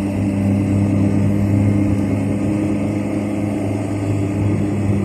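Honda Fit's four-cylinder engine pulling at full throttle, heard from inside the cabin as the car accelerates: a steady drone that holds its pitch while the car gains speed.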